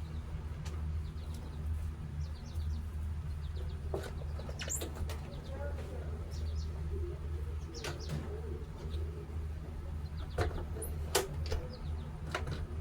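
Birds chirping outdoors in short, scattered calls over a steady low rumble.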